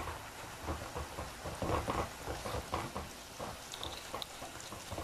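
Frozen French fries sizzling and crackling in hot oil as they are scooped out of the pan with a spoon, with irregular scrapes and clicks of the spoon against the pan.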